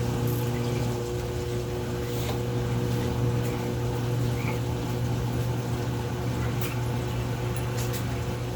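GE top-load washing machine running with its new tub fitted: a steady low motor-and-pump hum with water moving inside.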